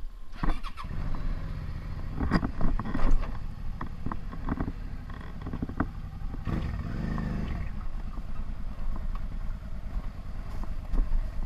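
Motorcycle engine running at low revs while the bike rolls slowly over gravel, with scattered knocks and crunches over the engine note.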